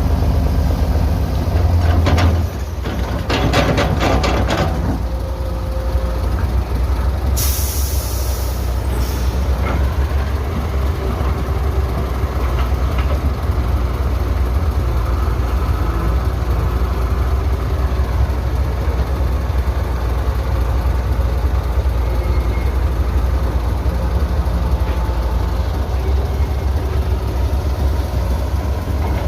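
Heavy diesel engines of an excavator and dump truck running steadily at a canal dig, with a run of metallic clanks a couple of seconds in and a sharp hiss of released air lasting about a second and a half near eight seconds in.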